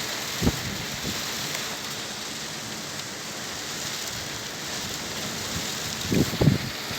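Heavy tropical downpour: a steady hiss of rain falling, with a dull thump about half a second in and a few louder thumps near the end.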